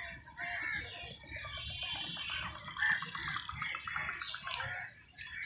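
Several birds chirping and calling in park trees, with short high chirps throughout and a fast rattling trill from about a second in to halfway through.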